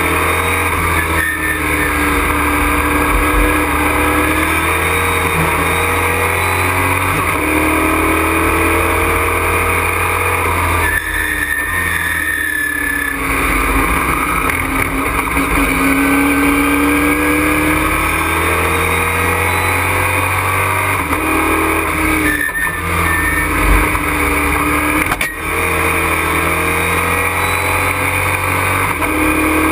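Race truck's engine heard from inside the cockpit under hard acceleration, its pitch climbing again and again and breaking off at each gear change. It lifts off briefly about a third of the way through and again near the three-quarter mark.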